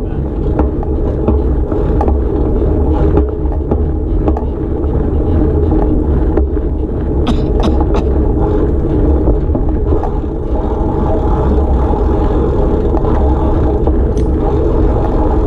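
Small motorcycle engine, likely a kid's dirt bike, running steadily with a low rumble, and a few light clicks and knocks over it.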